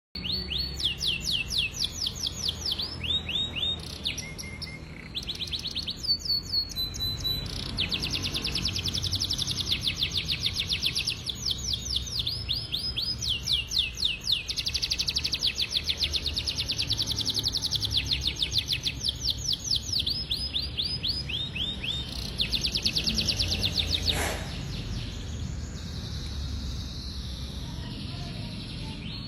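Domestic canary singing a long, continuous song of rapid trills, each phrase a fast run of repeated sweeping notes, changing pitch and speed from phrase to phrase. Near the end a sharp click sounds and the song drops away, with a low rumble underneath throughout.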